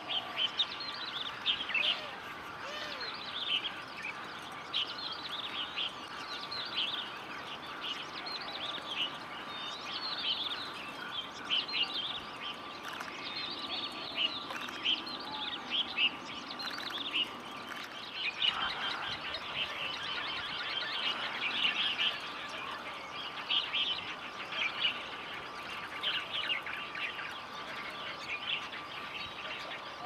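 Birds twittering: a dense, unbroken stream of short high chirps and trills.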